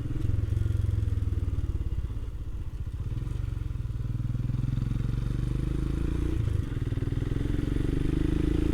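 Royal Enfield Himalayan's 411 cc single-cylinder engine running on the road, a steady pulsing thump. It eases off briefly about a third of the way in, then after a short break about six and a half seconds in it pulls again with a slowly rising note.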